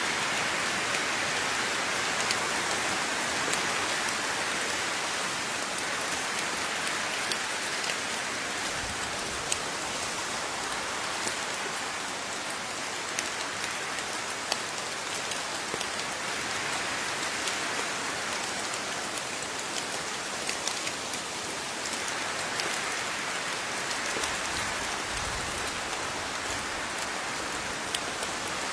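Steady rain falling, with the patter of individual water drops striking a surface scattered through the hiss.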